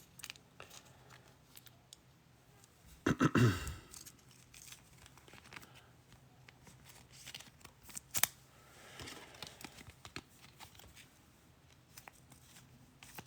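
Trading cards and packaging being handled: soft rustling, scraping and small clicks, with a louder burst of handling noise about three seconds in and a single sharp click past the middle.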